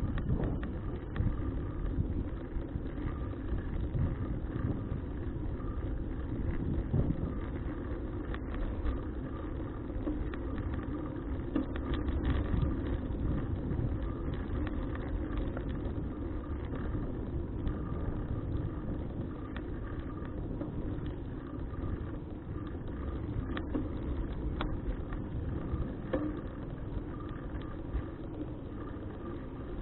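Steady wind rumble and road noise from a bicycle in motion, with a faint, steady hum.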